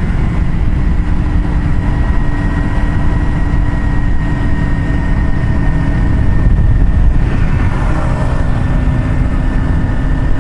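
Steady road noise of a vehicle riding along a highway: a dense low rush with a steady engine drone, and a brief swell of hiss about seven seconds in.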